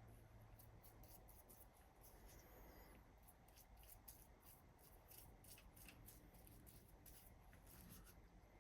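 Faint, quick scratchy strokes, several a second, of a hand tool working over the thick paint on the vise parts, over a low room hum.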